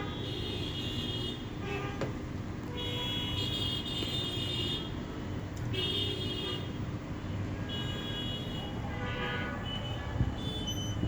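Street traffic rumbling, with vehicle horns honking several times in short calls of about a second each.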